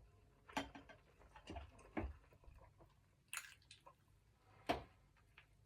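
Faint eating sounds: soft chewing with a few scattered clicks and knocks of tableware, the sharpest about four and a half seconds in.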